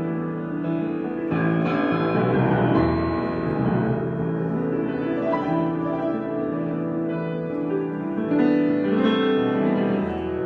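Improvised piano playing: slow, sustained chords, with new notes entering every few seconds over held notes.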